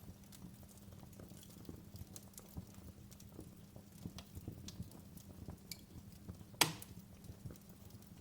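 Wood fire crackling in a fireplace: frequent small irregular pops and snaps over a low steady rumble of burning, with one sharp loud pop about six and a half seconds in.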